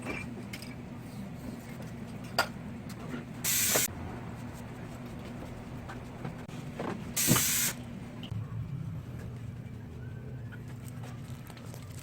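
Two short bursts of pressurized gas hissing from a nozzle, about three and a half seconds apart, over a steady low hum.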